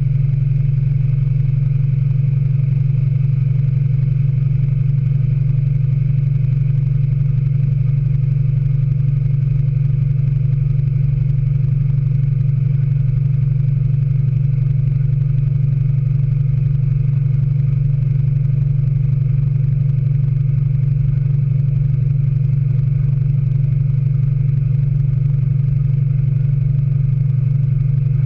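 Speed Queen AWNE92 9 Series top-load washing machine in its final spin, running with a steady, even low hum that holds one pitch throughout.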